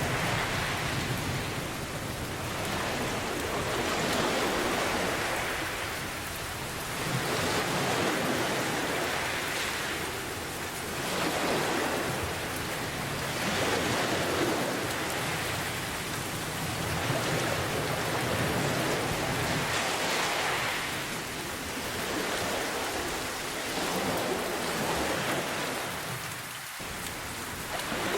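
Steady rain pouring, its hiss swelling and easing gently every few seconds.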